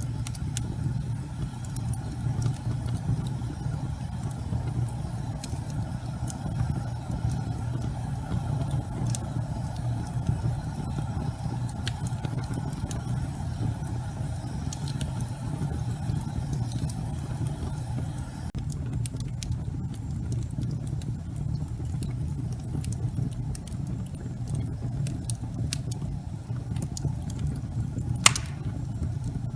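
Wood logs burning in a fireplace: a steady low rumble of flame with scattered crackles and pops, one sharper pop near the end.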